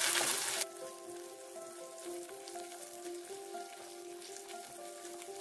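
Onions sizzling in hot oil in a non-stick kadai while being stirred, cut off abruptly under a second in. After that only soft background music with held, changing notes remains.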